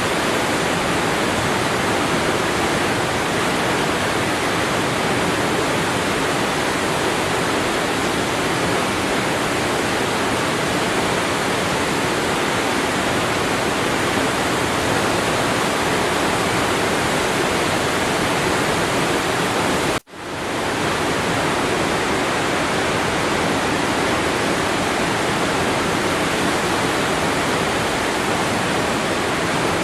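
Waterfall: falling water making a steady, dense rush. About twenty seconds in it cuts out for an instant and swells straight back.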